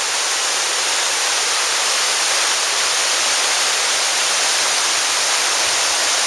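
Waterfall cascading over rock: a steady, even rush of falling water with no change.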